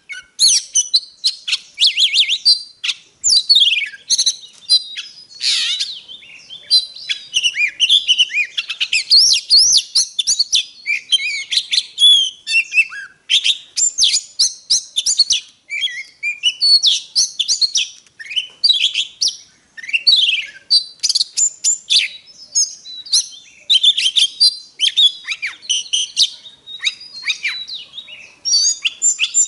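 Oriental magpie-robin singing a long, varied song of loud whistles, quick rising and falling sweeps and short chattering notes, phrase after phrase with hardly a pause.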